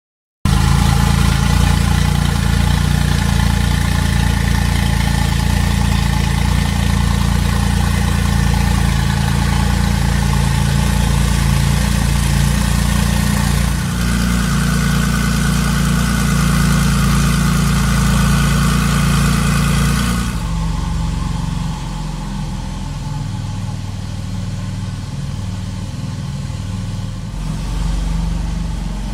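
Porsche 992 GT2 RS twin-turbo flat-six idling steadily through a Capristo stainless-steel sport exhaust, a deep even note that cuts in suddenly at the start. About two-thirds of the way through it steps down, quieter and duller.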